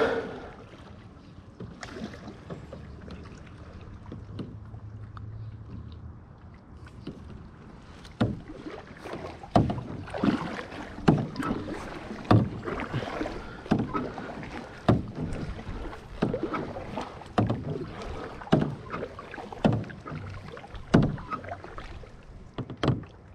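Kayak paddles dipping and pulling through the water, one splashy stroke about every second. The strokes start about a third of the way in, after a quieter stretch of water and wind noise.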